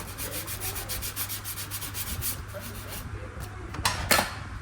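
Hand sanding or rasping: rapid back-and-forth rubbing strokes, about six a second, then two louder strokes near the end.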